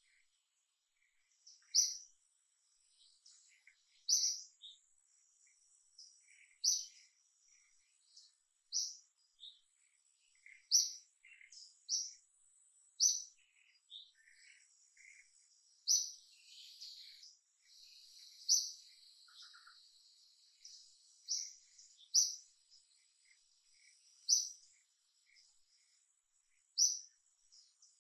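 Bird chirping: short, sharp, high chirps repeated about every two seconds, with fainter scattered peeps between them. A faint, steady, high insect whine runs underneath.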